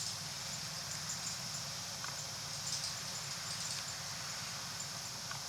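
Inside a city bus cabin: a steady low drone from the running bus, with a constant high hiss and faint, scattered ticks and rattles.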